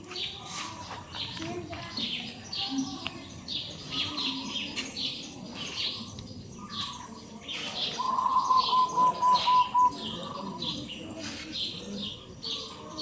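Many small birds chirping busily and without pause. About eight seconds in comes a louder run of about six quick, even calls at one pitch.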